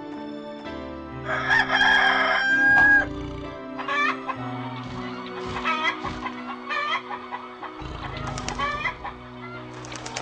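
A rooster crows once, loudly, then hens cluck in short calls about once a second, over soft background music.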